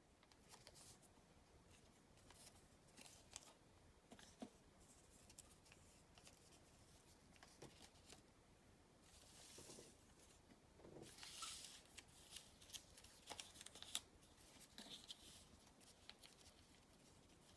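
Origami paper being handled and folded: faint rustling with crisp creasing clicks, busiest in the second half.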